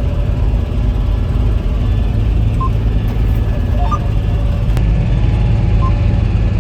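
Tractor engine running steadily with a low rumble, with a few faint short high tones over it.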